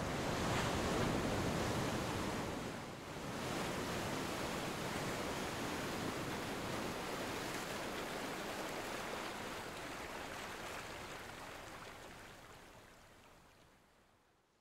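Surf washing in a steady rush, dipping briefly about three seconds in, then fading out over the last few seconds.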